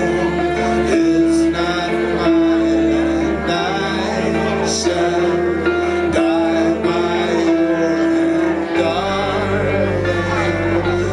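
A live trio playing an instrumental passage: held pitched notes over a sustained bass line, with the bass moving to a new note near the end.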